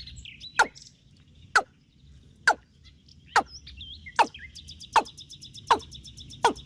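Bird calls: a loud call that falls steeply in pitch, repeated about once a second, with smaller warbling chirps between. A rapid, high ticking trill joins near the end.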